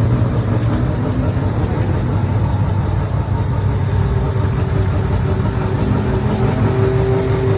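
Four-rotor Mazda rotary race car engine idling steadily.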